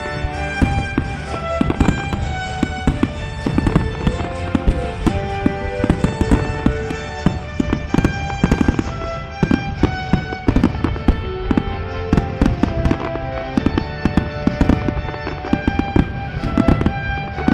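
Fireworks bursting in rapid succession, a dense run of bangs and crackles, over music with sustained notes.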